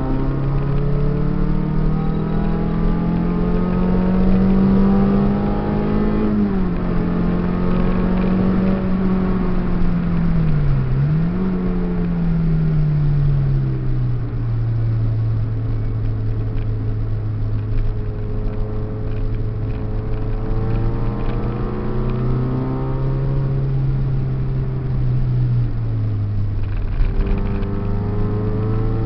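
Peugeot 306 engine heard from inside the cabin at track speed: revs climb for the first six seconds, drop sharply at a gear change, dip briefly and pick up again near eleven seconds, then run lower and steadier for the rest.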